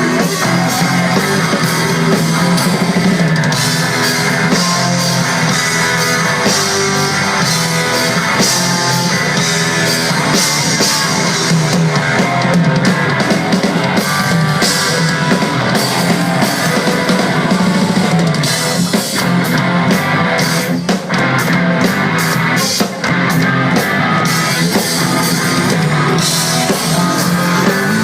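Rock band playing live, with a drum kit and electric guitar driving the song.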